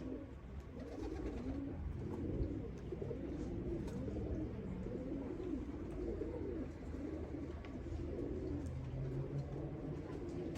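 Several domestic pigeons cooing together, their overlapping low coos running on without a break.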